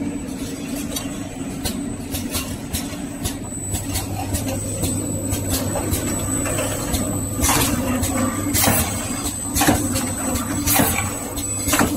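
Container-sealing machine running, with a steady low hum and a thin high whine under repeated sharp clicks and knocks. The clicks grow louder and come about once a second in the second half.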